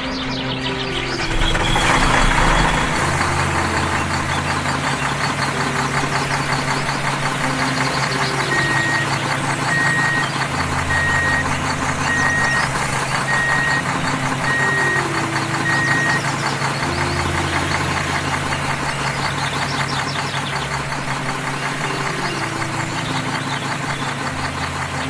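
Tractor engine running steadily with a knocking beat, over background music with a repeating bass line. About a third of the way in, a row of short high beeps sounds at an even pace for several seconds.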